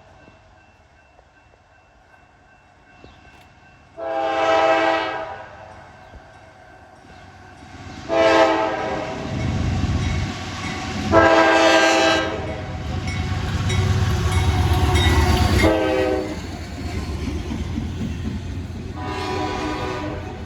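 Freight locomotive's multi-chime air horn sounding a series of blasts: a long one about four seconds in, two more close together around eight and eleven seconds, a short one near sixteen seconds and a last one near the end. From about nine seconds a heavy low rumble of the train passing builds up and stays loud beneath the horn.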